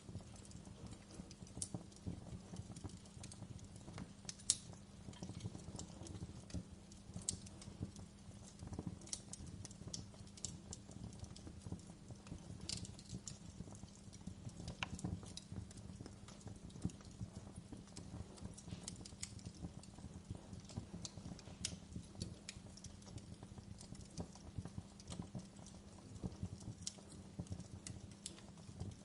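Wood fire burning in a fireplace: irregular sharp crackles and pops over a steady low hum.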